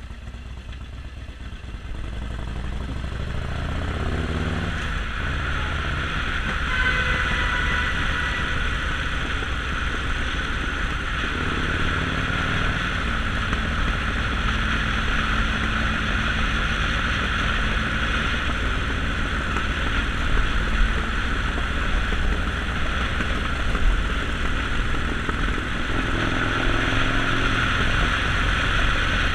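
Harley-Davidson Sportster Forty-Eight's 1200 cc V-twin engine running under way. It grows louder over the first few seconds as the bike picks up speed, then runs steadily with a constant hiss over it, with a couple of brief rises in pitch.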